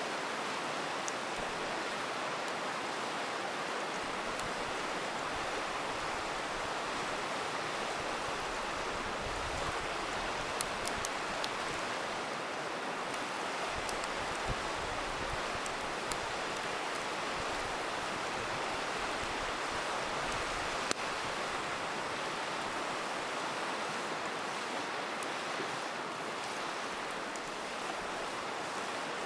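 A river rushing steadily, with a campfire crackling over it in scattered sharp pops, a small cluster of them about a third of the way in.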